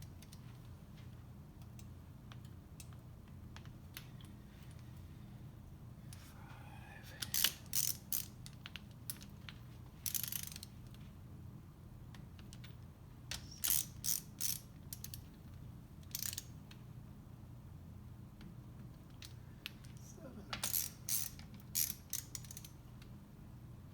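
Ratcheting torque wrench clicking in short runs, several times over, as bolts on the jet-drive case are run down in sequence at a low torque stage.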